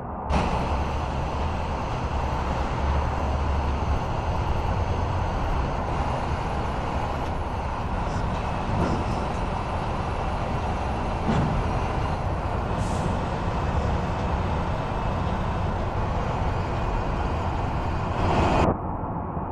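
Truck running steadily, engine rumble mixed with road or air noise; the sound starts and stops abruptly.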